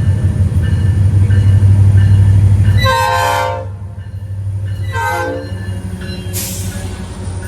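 A train passing close with a loud low rumble that drops away about three seconds in, followed by two short horn blasts whose pitch falls as the train moves off. A brief hiss comes near the end.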